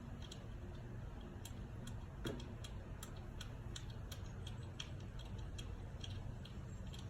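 Ratchet wrench with a universal joint clicking in even, sharp ticks, a bit under three a second, as it turns a fastener.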